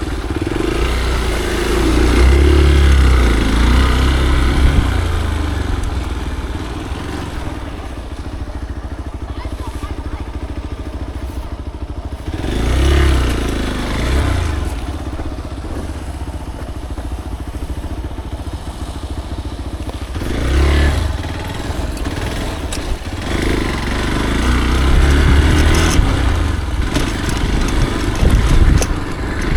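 Off-road motorcycle engine running, revving up and easing off several times as the bike rides the trail.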